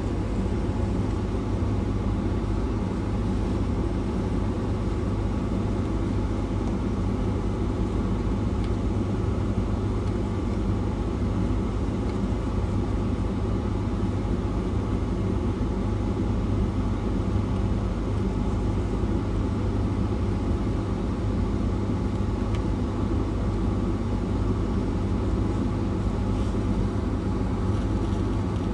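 A vehicle engine idling steadily: a constant low hum with no change throughout.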